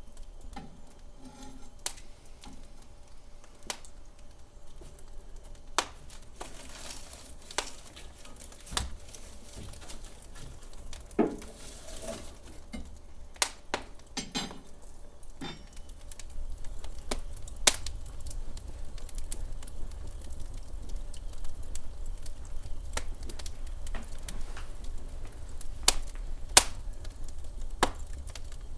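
Wood fire burning in a fireplace, crackling with sharp pops at irregular moments over a low rumble. The rumble grows a little louder about halfway through.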